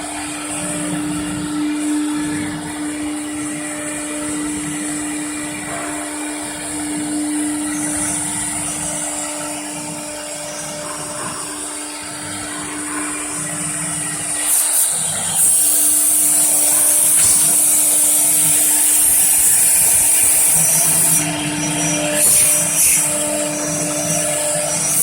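CNC router spindle running with a steady whine, and machine noise under it. About fifteen seconds in, a loud high hiss joins and stays, with a few brief dips.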